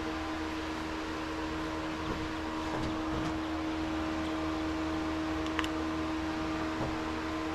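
Electric shop fan running with a steady hum and a constant whine, with a few light clicks about two, five and a half, and seven seconds in.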